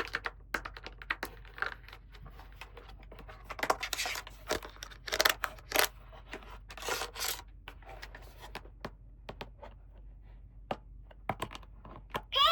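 Toy packaging and small plastic toy pieces handled up close: irregular clicks and taps, with a few short tearing sounds near the middle.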